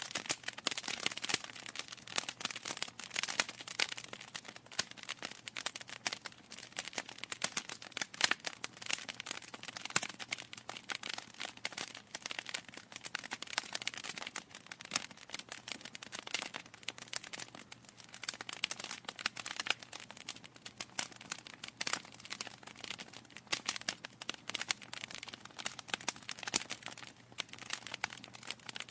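Wood fire crackling, with dense, irregular pops and snaps from the burning logs and a few louder snaps.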